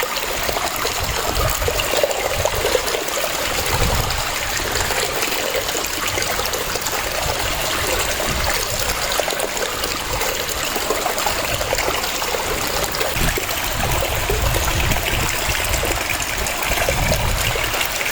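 Waterfall: water cascading in a steady rush of splashing and flowing.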